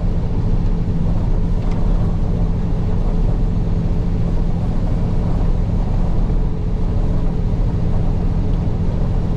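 Semi truck running down the road, heard inside the cab: a steady low engine hum under a constant haze of road noise.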